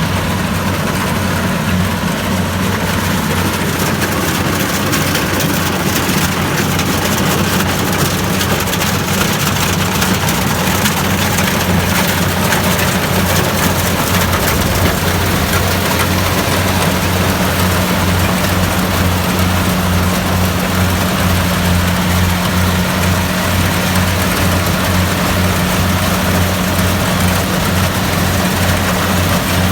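Kubota DC-70 Plus combine harvester's diesel engine running steadily with a low, even, fast-pulsing drone. It is overlaid by a continuous hiss of the working machinery.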